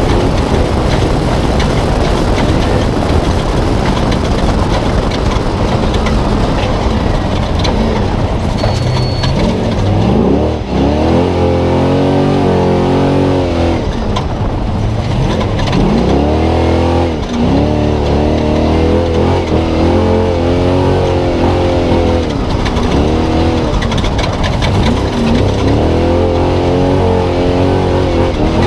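Spec Trophy Truck's V8 heard onboard at race speed, under a heavy roar of tyre, chassis and wind noise. From about ten seconds in, the engine revs up and down again and again as the throttle is worked over the terrain.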